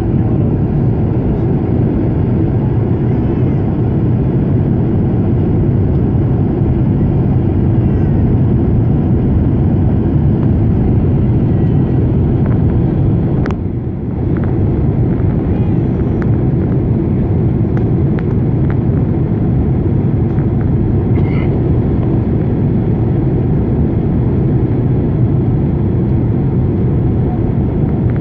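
Steady rumble of a Boeing 767's engines and airflow heard inside the passenger cabin during the descent for landing, with a single sharp click about halfway through.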